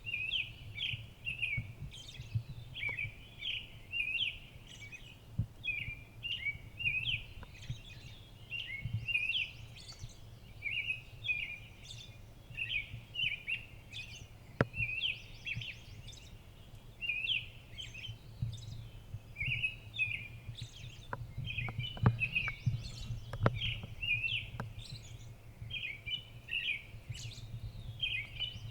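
Small songbirds chirping without pause: many short, sharp call notes overlapping one another, over a low steady rumble. A few sharp clicks come about three-quarters of the way through.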